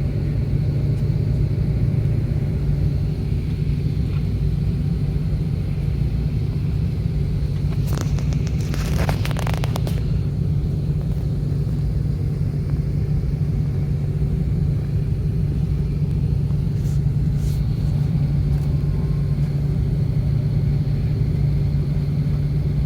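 Airbus A330-300 cabin noise: a steady, deep rumble of engines and airflow heard from inside the passenger cabin. A brief rustle, a couple of seconds long, comes about eight seconds in.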